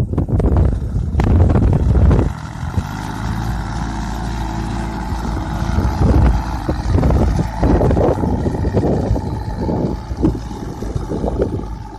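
Tractor engine running steadily, louder for the first couple of seconds and then settling to an even rumble.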